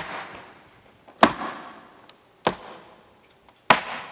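Tap shoes' metal heel and toe taps striking the floor in slow single strokes, four sharp taps evenly spaced about a second and a quarter apart, each followed by a short echo, with faint light taps between.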